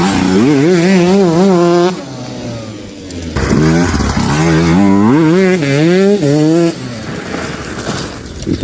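Sherco 125 SE-R two-stroke enduro engine revving hard, its pitch wavering up and down as the throttle works. There are two long spells at high revs, about two and three seconds long, with the engine dropping back lower between them and near the end.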